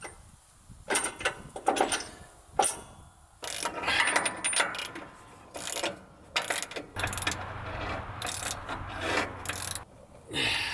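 Irregular metallic clanks, clicks and rattles of sawmill V-belts being worked onto their pulleys by hand, with a brief low hum partway through.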